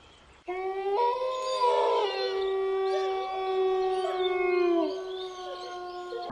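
Several canines howling together in long, held notes at different pitches, starting about half a second in.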